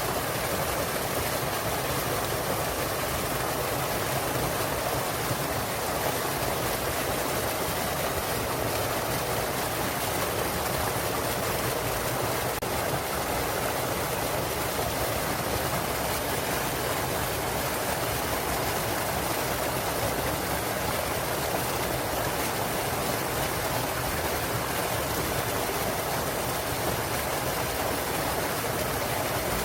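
Small waterfall and mountain stream water rushing and splashing in a steady, even flow.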